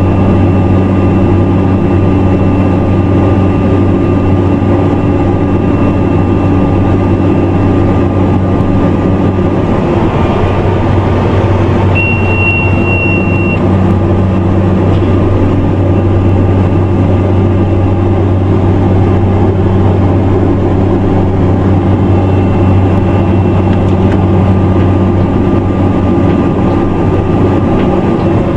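Airplane engine running steadily, a loud even drone. A brief high tone sounds about twelve seconds in and lasts about a second and a half.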